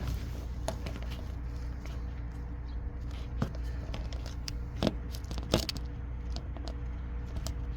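Lexus IS 200 inline-six engine idling steadily just after being started with foam carburettor cleaner in its cylinders to burn off the carbon blamed for its knocking, with scattered light clicks and taps over the hum.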